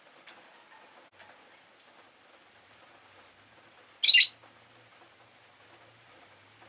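Rosy-faced lovebird giving one short, high-pitched call about four seconds in, against faint background hiss.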